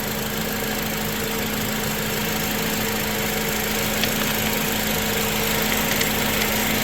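2004 Honda Accord engine idling steadily after its no-start repair, a constant hum.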